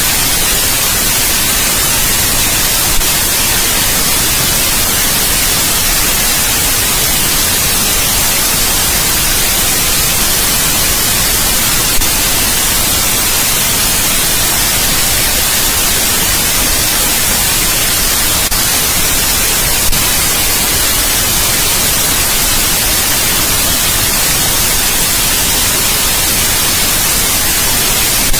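Steady, even white noise hiss, strongest in the high range and unchanging throughout, with three faint ticks spread through it.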